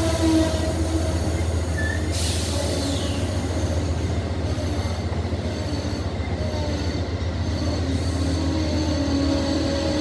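Amtrak passenger train rolling slowly through the station with a steady low rumble. Its wheels squeal in drawn-out tones near the start and again near the end, and a brief high squeal falls away about two seconds in.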